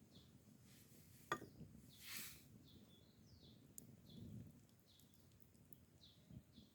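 Faint birdsong: short, falling chirps repeated every second or so. One sharp click comes about a second in, and a brief soft hiss follows shortly after.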